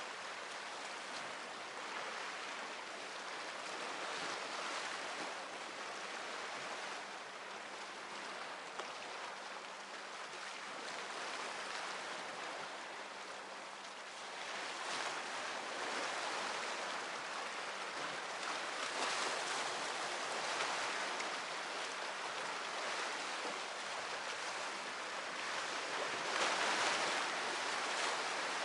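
Sea surf: waves washing onto the shore as a steady rushing hiss that swells with each wave every few seconds, loudest near the end.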